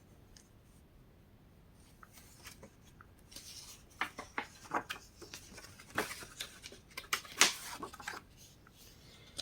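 Pages of a paper catalog being handled and turned: soft rustles and swishes of paper, starting after about three seconds of near quiet.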